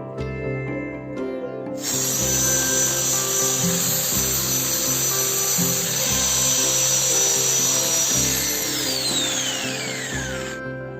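A handheld power tool's motor runs with a loud hiss and a steady high whine for about nine seconds. It is then switched off, and the whine falls in pitch as the motor winds down.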